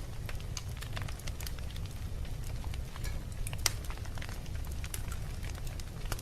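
Logs burning in a fireplace, crackling with frequent scattered sharp pops over a steady low rumble. The loudest pop comes a little past halfway.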